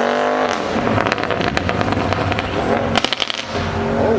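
Car engine revving up, then a rapid string of sharp exhaust pops and crackles as the throttle comes off, sounding like ear pops, before the engine settles to a steady drone.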